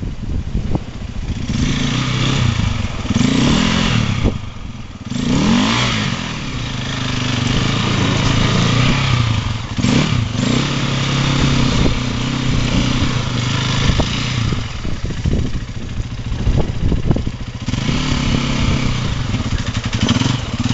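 Enduro dirt bike engine revving in uneven bursts, pitch rising and falling, while the bike is pushed and ridden up a steep climb of wet, loose rock. Scattered knocks and clatters come from the bike on the stones.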